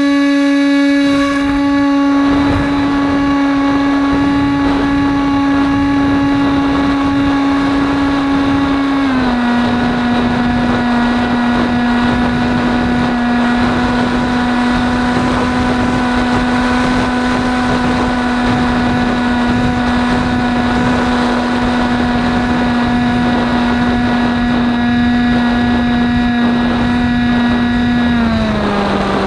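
Electric motor and propeller of an AXN Floater-Jet foam RC plane at steady throttle, heard from the onboard camera. It is a steady high whine that drops a little in pitch about nine seconds in and again near the end as the throttle is eased, with wind rushing over the microphone.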